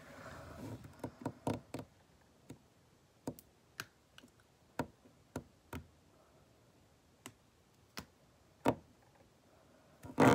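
Scattered sharp clicks and taps, about a dozen at irregular intervals, with a short rustle in the first second.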